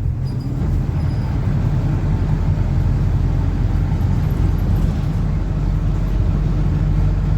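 PAZ-4234-05 bus's diesel engine running under way, heard from inside the passenger cabin as a steady low drone that grows a little louder after about a second.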